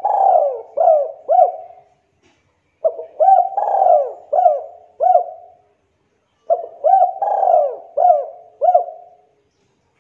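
Spotted dove (tekukur) cooing: three phrases of quick coo notes, each note rising and then falling in pitch, with short pauses between the phrases.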